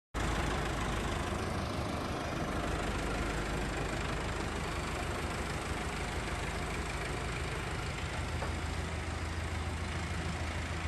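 A tractor's diesel engine idling steadily: an even, unchanging low rumble with a hiss of noise above it.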